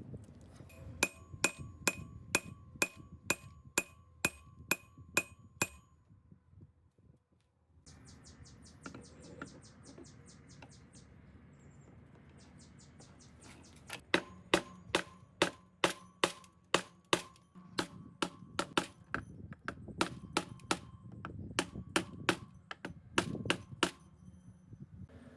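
Hammer striking metal in steady blows about two a second, each with a short metallic ring: a run of about a dozen blows, a pause with faint quick ticking, then a longer run of blows.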